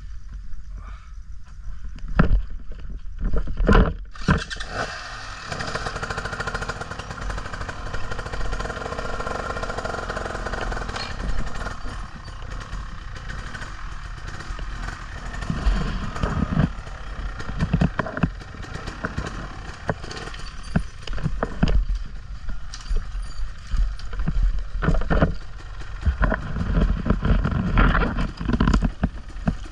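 Dirt bike running as it is ridden over rocks on a trail: a steady motor drone with repeated knocks and clunks from the bike.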